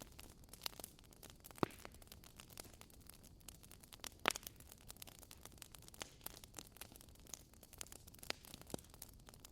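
Wood bonfire burning, with a steady soft hiss and frequent irregular crackles. Two louder pops stand out, about one and a half seconds in and about four seconds in.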